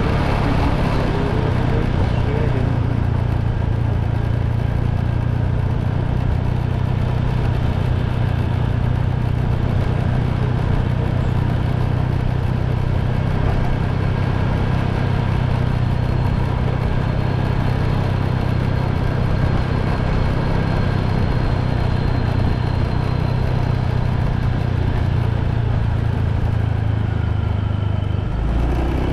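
Motorbike engine running at a steady cruising speed, with wind and road noise from the ride; the hum stays even, with a slight change near the end.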